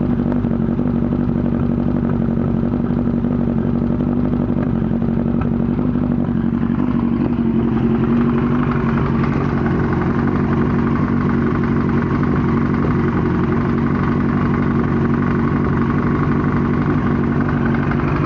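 1998 Yamaha R1 998 cc inline-four engine idling with a knocking noise that it has had since an accident. The owner hears it mostly from the right side of the engine and wonders whether it is the cam chain tensioner, the clutch basket or the valves.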